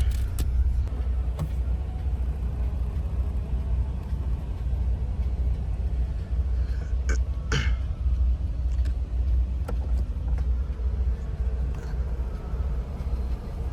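Semi-truck diesel engine running, heard from inside the cab as a steady low rumble, with two short noises about seven seconds in.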